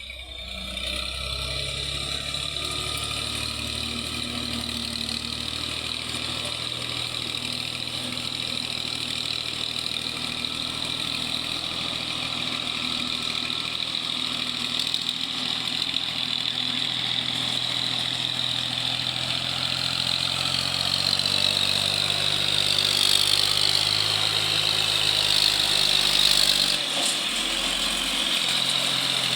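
Tractor's diesel engine running steadily while hauling a load of maize, getting louder over the last several seconds. A high whine slowly falls in pitch near the end.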